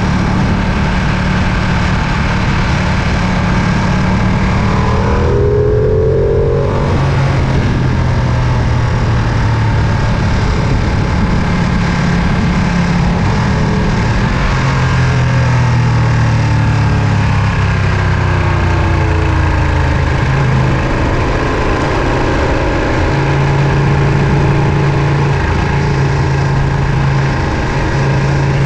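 Ducati Panigale V2's 955 cc Superquadro L-twin engine running under way, its note shifting up and down with throttle and gear changes. It sounds briefly duller about six seconds in.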